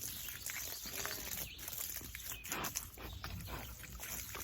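Feeder pigs grunting, with scattered knocks and rustling throughout.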